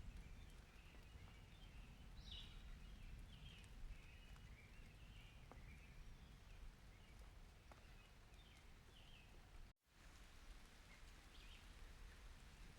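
Faint outdoor ambience: a low rumble with scattered soft bird chirps. The sound cuts out for an instant about ten seconds in.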